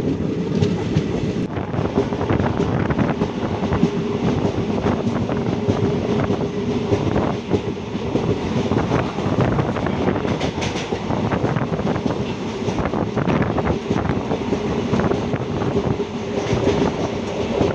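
Passenger train running at speed, heard from an open coach doorway: a steady rumble of the wheels on the track, full of quick, irregular clatter, with a steady humming tone running through it.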